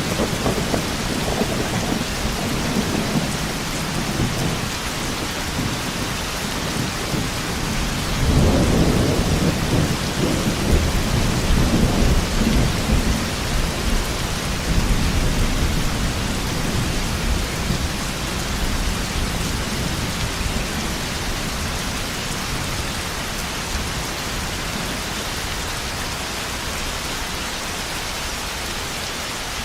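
Heavy rain falling steadily, with thunder rumbling near the start and again, louder, from about a third of the way in, dying away in the second half.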